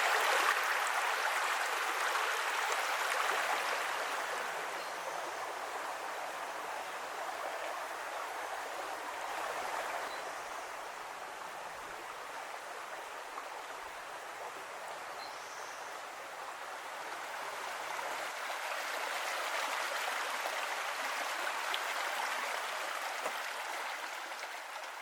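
Creek water rushing over rocks in small falls and riffles: a steady splashing rush that swells slightly near the start and again in the last few seconds.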